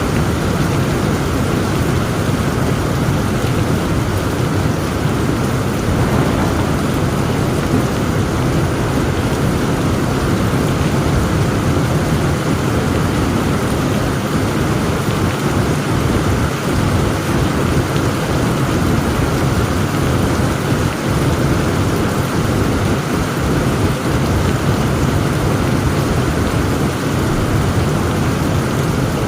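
Heavy thunderstorm: a steady, dense downpour of rain with a constant low rumble underneath and no sharp thunderclaps.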